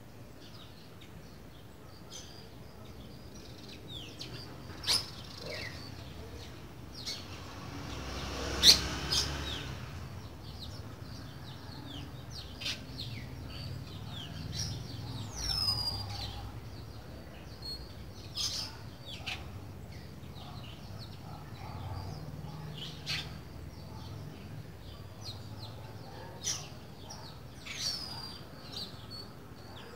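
Trinca-ferro (green-winged saltator) calling: scattered short chirps and quick falling whistled notes, with a sharp tap about nine seconds in.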